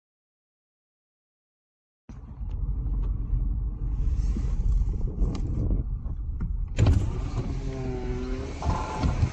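Car being driven: steady low road and engine rumble with some wind noise, after about two seconds of dead silence. About seven seconds in there is a sharp knock, followed by a short pitched sound that dips and then rises.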